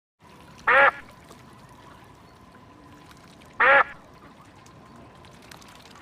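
Duck quacking: two short, loud quacks about three seconds apart, over a faint steady background hiss.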